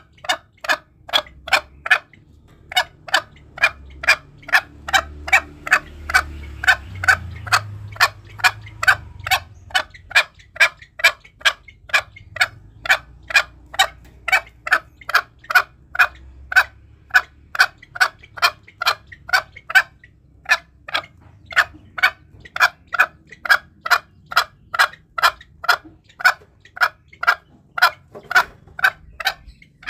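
Green junglefowl giving a rapid series of short, sharp clucking calls, about two to three a second, in runs broken by brief pauses. It is a lure call used to draw wild junglefowl in for hunting.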